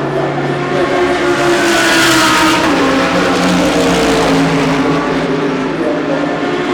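GT3 race cars running at speed, several engines heard at once, with one car passing close about two seconds in.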